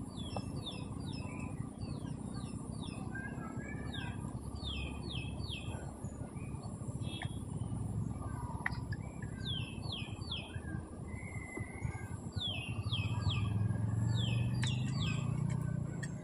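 Small birds chirping repeatedly, each call a short falling chirp, coming in quick runs of two to four. Underneath is a steady low rumble that swells for a couple of seconds near the end.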